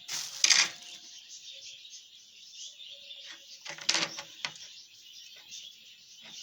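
Cuttlebones being handled and tied on a thread, a rustling and clatter with two louder knocks about half a second in and near four seconds, over a steady high background of small birds chirping.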